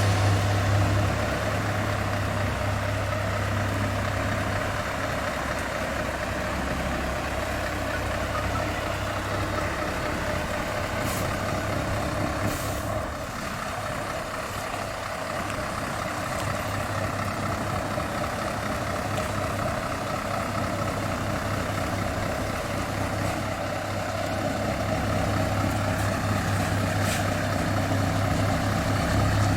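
Scania R520's V8 diesel running steadily through an open, straight-through exhaust pipe, giving a deep, constant low drone. It is a little quieter about halfway through and louder again near the end, with a few brief hisses of air.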